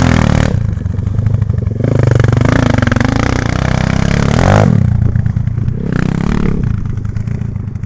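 Enduro motorcycle engine being ridden off-road, revving up and easing off several times as the throttle is worked. One long rise in revs is cut off suddenly a little past halfway.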